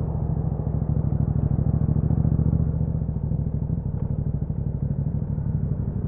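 2021 Yamaha MT-07's 689 cc parallel-twin engine running steadily through an Akrapovic exhaust with a dB killer fitted, its pitch holding even with no revving.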